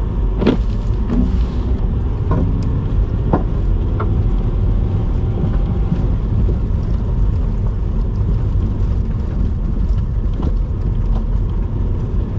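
Car driving slowly, heard from inside the cabin: a steady low rumble of engine and tyres, with a few short knocks in the first few seconds.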